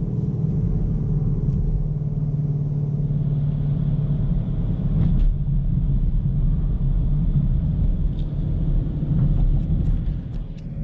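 Sixth-generation Chevrolet Camaro driving at a steady pace: a continuous low engine and road rumble with a steady hum, dipping briefly near the end.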